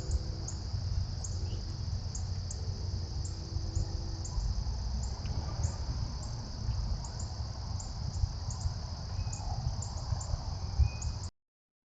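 Insect chorus of crickets: a steady high trill with short, higher chirps repeating about twice a second, over a low rumble. Two faint low hums come in the first half, and the sound cuts off abruptly near the end.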